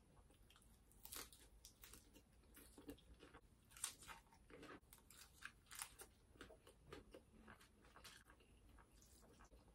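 Quiet, close chewing of crisp food, with irregular crunches and bites; the loudest crunch comes just under four seconds in. The food is crisp salad leaves eaten by hand.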